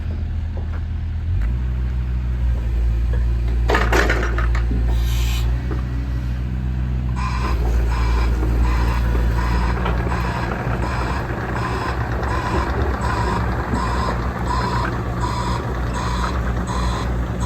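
JCB 65R-1 midi excavator's diesel engine running steadily, with a brief clatter about four seconds in. From about seven seconds in, a repeating beep sounds roughly every two-thirds of a second, typical of the machine's travel alarm while it tracks.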